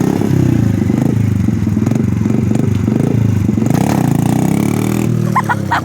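Dirt bike engine running close by, its pitch rising and falling as it is revved up and eased off.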